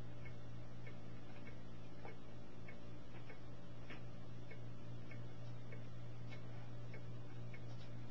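A steady low hum with a regular ticking on top, about two ticks a second.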